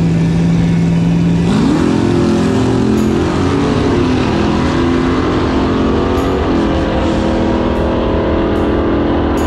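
Drag car engine, the nearer car a Plymouth Barracuda, held at steady revs on the starting line, then launching about a second and a half in with the revs climbing fast. About six and a half seconds in the pitch drops at an upshift, and the engine keeps pulling as the car runs away down the strip.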